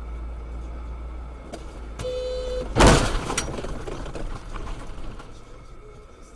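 Steady road rumble inside a vehicle. About two seconds in, a brief horn blast, then a loud crash of a collision, with the noise fading over a couple of seconds.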